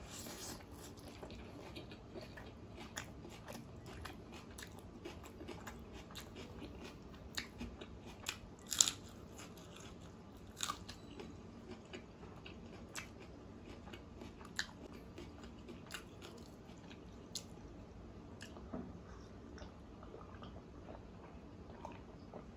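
Close-miked chewing of a big mouthful of rice and chicken curry eaten by hand, with many short wet mouth clicks and smacks; one sharper, louder click comes a little under halfway through.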